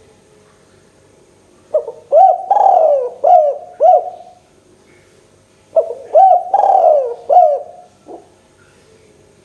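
Spotted dove (tekukur) cooing: two phrases a little over a second apart, each of about five coos, with the longest coo in the middle. Each coo drops in pitch.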